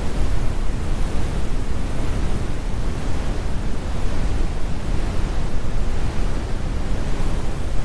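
Steady synthetic brown noise: a deep, even rumble weighted to the low end with the high frequencies rolled off.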